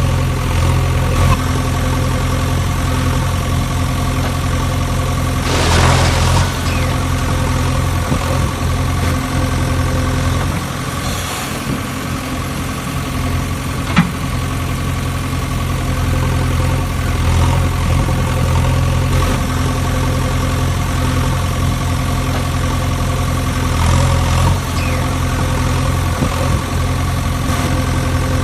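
An engine running steadily at idle: an even, unchanging low drone, with a couple of brief swells and one sharp click about halfway through.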